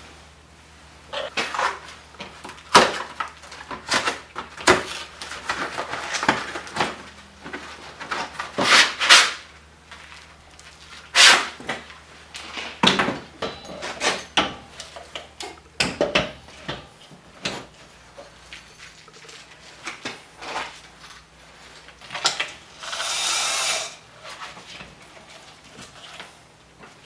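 Workshop handling sounds: irregular knocks and clatters of tools and parts being picked up and set down, with a short hiss about 23 seconds in.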